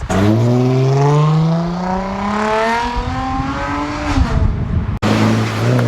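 A car's engine accelerating hard away from the meet, its pitch climbing steadily for about four seconds before the throttle comes off and it drops. After a brief break near the end, a steady engine drone.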